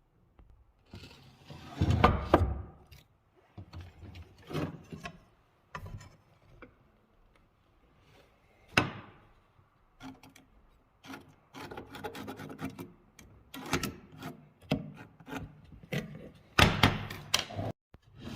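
Pieces of wood rubbing and scraping against each other in irregular bursts of a second or two, with a single sharp knock about nine seconds in.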